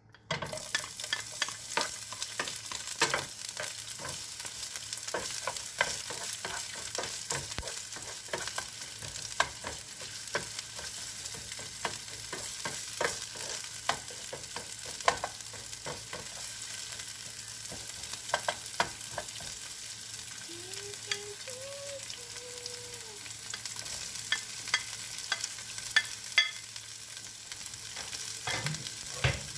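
Chopped onion and vegetables sizzling in hot oil in a nonstick frying pan, the hiss starting suddenly as they go in about half a second in and running steadily on. Frequent clicks and scrapes of a plastic spatula stirring against the pan.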